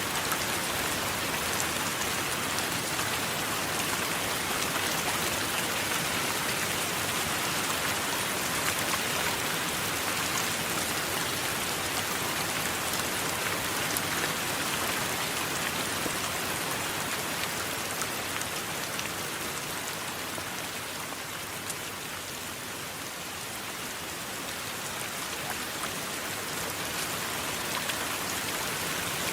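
Steady rain falling on a surface, with fine drop patter. It eases slightly a little past the middle, then comes back up.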